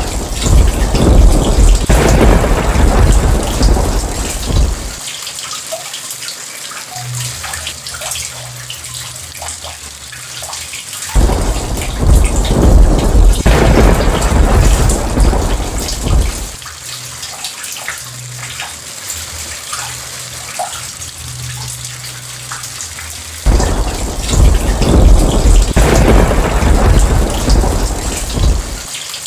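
Steady heavy rain with three long rolls of thunder: one just as it begins, one about eleven seconds in, one about twenty-three seconds in, each rumbling for several seconds before fading back into the rain.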